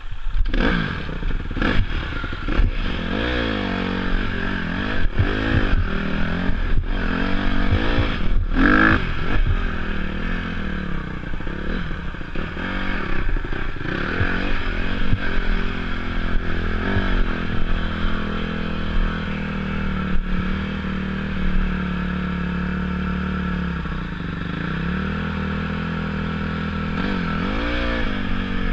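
Off-road motorcycle engine being ridden, revs rising and falling over and over through the first ten seconds or so, then holding steadier before climbing again near the end. Clattering knocks from the bike over rough ground, loudest in the first few seconds.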